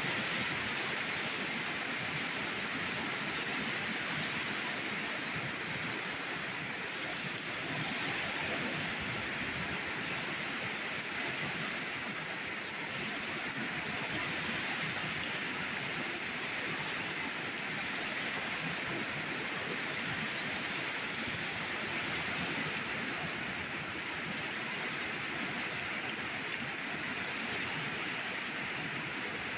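Torrential rain pouring down and splashing on surfaces, a steady dense hiss of heavy downpour.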